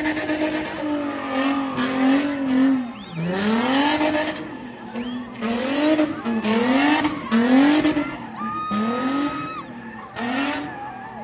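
A spinning car's engine revving hard over and over, its pitch climbing and falling back about once a second while the tyres screech against the tar. A short steady squeal sounds for about a second near the end.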